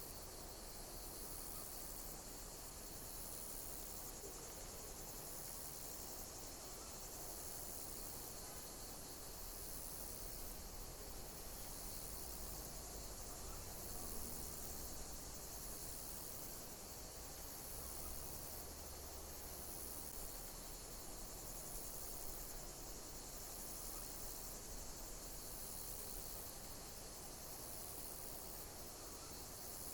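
Insects chirping in a steady, high-pitched chorus, with a shrill pulse recurring about every two seconds.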